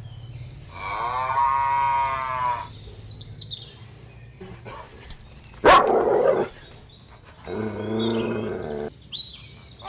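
A dog vocalizing: a long whine, a loud sharp bark about six seconds in, and a shorter whine near the end, with high bird chirps over the first whine.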